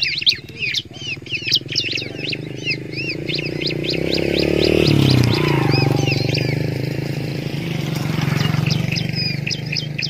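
Ciblek (bar-winged prinias) calling in a dense run of short, quick chirps. Under them a low droning swells to its loudest about halfway through and then eases.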